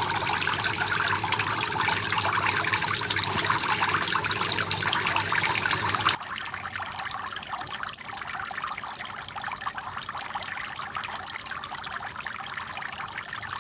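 Water from a small homemade fountain trickling and splashing steadily, with a low steady hum under it. About six seconds in it drops abruptly to a quieter trickle that carries on.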